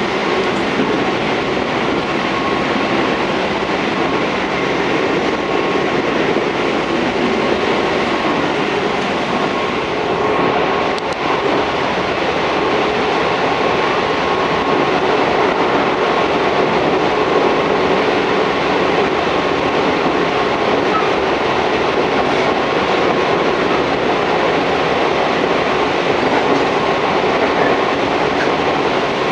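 Tobu 634-series electric train running steadily between stations, heard from inside the car: a continuous rumble of wheels on rail with a faint steady hum from the running gear.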